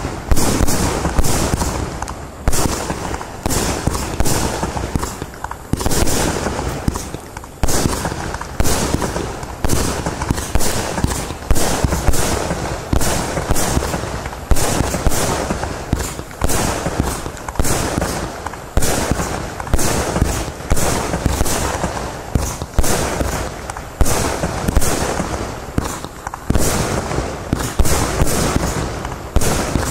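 Iskra Neon King compound firework battery firing: a rapid, continuous series of shots and shell bursts, about one or two a second, from a mix of 20 to 30 mm calibres.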